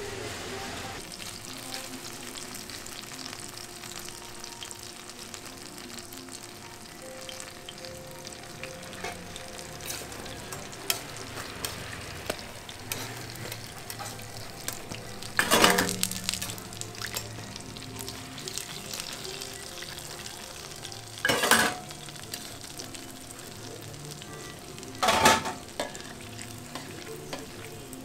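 Hotteok frying in oil on a street-stall griddle: a steady sizzle with small clicks, and three louder bursts of noise about 15, 21 and 25 seconds in.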